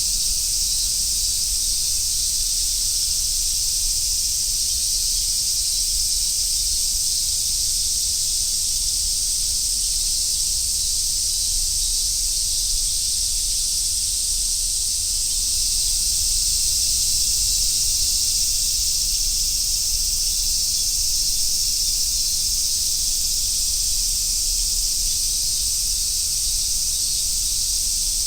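A chorus of summer cicadas, large brown cicadas (abura-zemi) among them, making a steady high sizzling buzz that does not let up, with a faint low rumble underneath.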